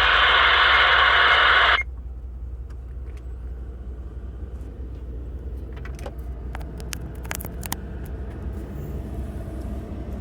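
Burst of air-band radio static hiss for about two seconds that cuts off abruptly, like a squelch tail, followed by a steady low rumble with a few faint clicks.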